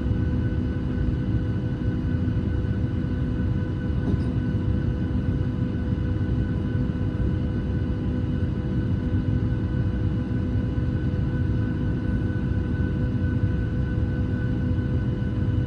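Steady cabin noise inside a Boeing 737 airliner: a constant low rumble with several fixed whining tones running evenly over it.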